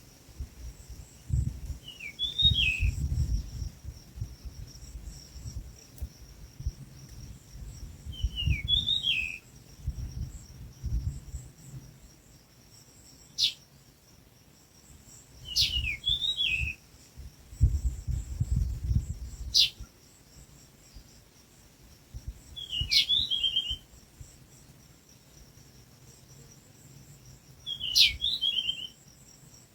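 A bird calls a short chirping phrase five times, about every six or seven seconds, over a steady high insect drone. Between calls come bouts of low rumble and a few sharp clicks.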